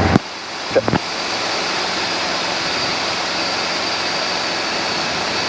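Steady rushing cabin noise of a Robinson R22 helicopter in flight, after a couple of short clicks about a second in.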